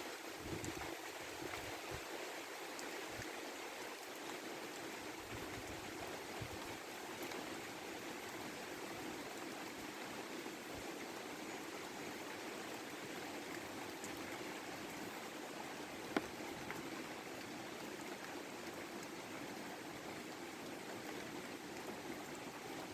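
Steady rain falling and trickling, with a single sharp click about sixteen seconds in.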